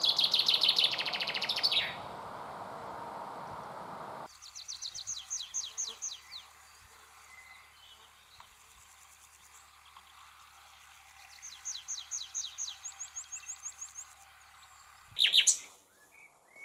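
Small songbirds singing: repeated quick trills of short falling notes, a few seconds apart, with a louder, sharper burst of calls near the end. A steady rushing background under the first trill stops abruptly about four seconds in.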